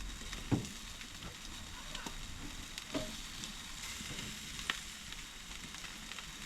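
Jerk chicken legs sizzling on a barbecue grill: a steady hiss with a few scattered pops and crackles.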